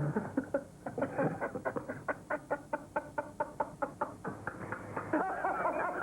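A person laughing: a long run of rapid chuckles, about five a second, that becomes a higher, more voiced laugh near the end.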